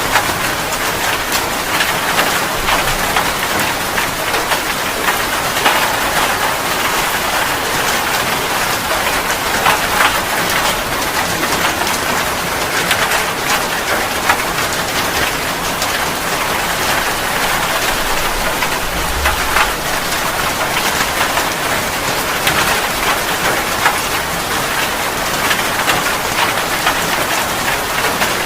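Steady rain falling on a surface, with many separate drop hits clicking through the even hiss.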